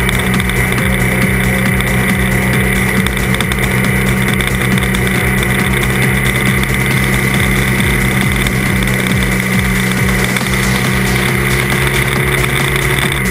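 Trail motorcycle engine running steadily at cruising speed on a dirt track, with wind rush and irregular low bumps on the on-board microphone.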